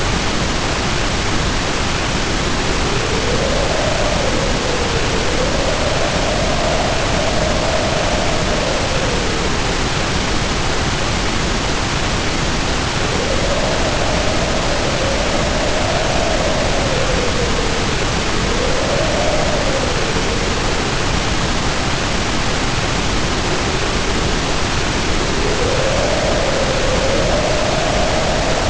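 Storm ambience: heavy rain pouring down as a steady hiss, with the wind howling over it in slow swells that rise and fall in pitch several times.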